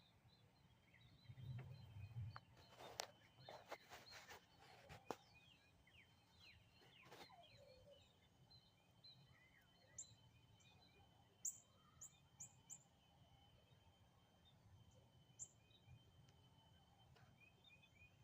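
Faint outdoor ambience with small birds chirping repeatedly, short high calls scattered throughout and a few sharp falling chirps in the second half. A cluster of light knocks and rustles sounds about three to five seconds in.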